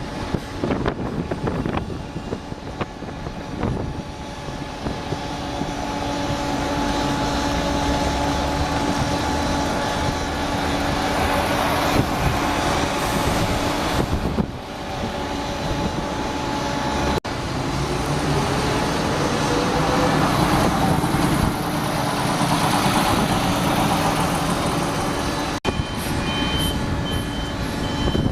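Large road vehicles running and moving past, a steady engine hum with a rising pitch in the middle. The sound breaks off abruptly twice, and short high beeps repeat near the end.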